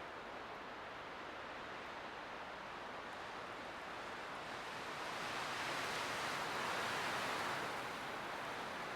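Light wind blowing steadily, swelling into a stronger gust around the middle and easing off again near the end.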